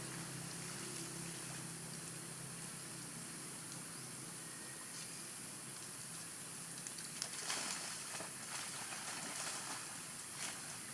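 Macaques splashing in pond water: a few brief splashes from about seven seconds in and another near the end, over a steady background hiss.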